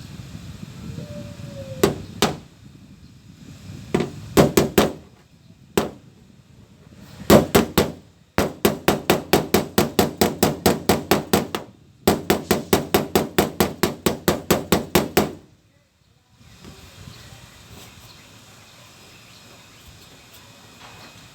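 Hammer striking the sheet-metal side panel of a Mitsubishi L300 van in panel-beating work. Scattered single blows and short quick clusters give way to two long, even runs of about five blows a second, which stop about six seconds before the end.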